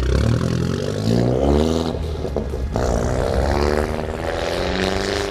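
Mini Cooper's engine revving hard as the car pulls away from a standing start. The pitch climbs, drops back at a gear change about two and a half seconds in, then climbs again.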